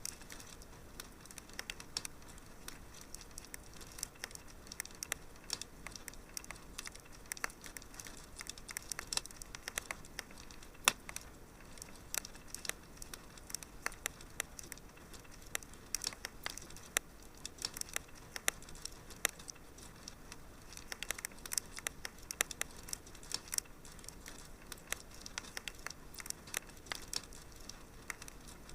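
Wood fire crackling in a fireplace: irregular sharp pops and snaps, several a second, over a soft steady hiss, with one louder snap about eleven seconds in.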